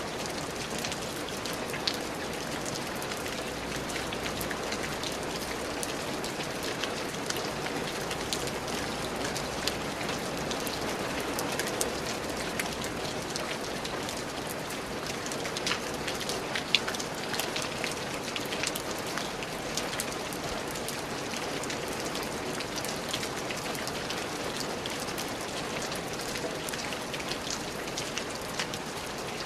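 Steady rain falling, with many individual raindrops ticking sharply against a continuous patter and a few louder drops.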